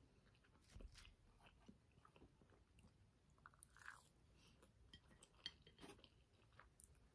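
Faint, close-up chewing of a soft pancake bite, with a few small clicks along the way.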